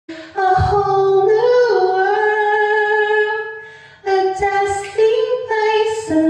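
A single high voice singing a cappella in long, held notes. A long note fades out, and after a brief pause a new phrase begins about four seconds in.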